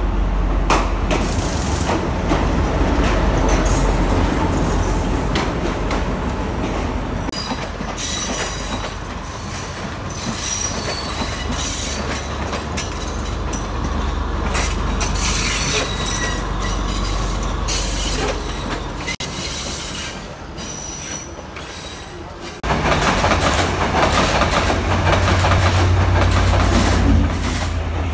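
Diesel trains: a locomotive's engine runs with a steady low rumble while carriage wheels clatter and squeal on the rails. Several seconds before the end it cuts suddenly to a louder passing locomotive with a heavy engine drone.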